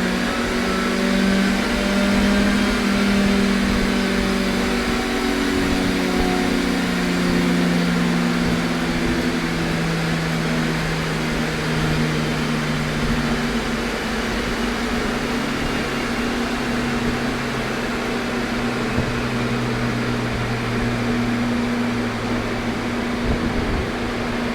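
Car engine running on a chassis dynamometer after a pull, its revs and pitch falling slowly and steadily, over a steady mechanical drone.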